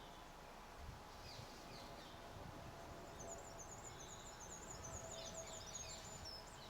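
A small songbird calling in a garden: a few short high chirps, then a fast run of repeated high notes lasting about three seconds, with some quicker falling chirps near its end, over a faint steady background hum.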